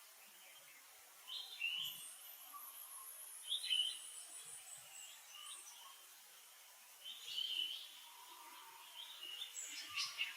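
High chirping animal calls in four short bouts, with a long thin very high whistle that slowly falls in pitch during the first half.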